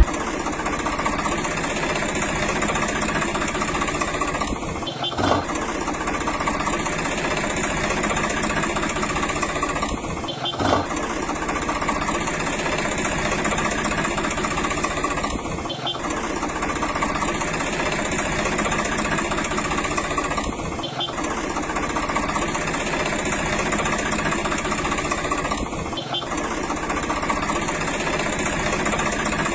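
A small motor running steadily, with brief breaks about every five seconds.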